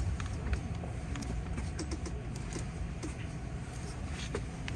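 Hankyu 1300 series train: a low steady rumble with many scattered faint clicks and ticks.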